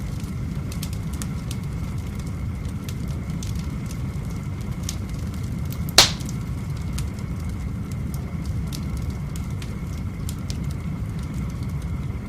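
Wood fire burning in a fireplace, crackling with scattered small pops over a steady low rumble, and one loud sharp crack about six seconds in.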